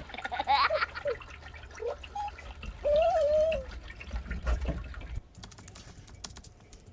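Water pouring and trickling into a pool as it fills, with a few short wavering high-pitched vocal sounds over it.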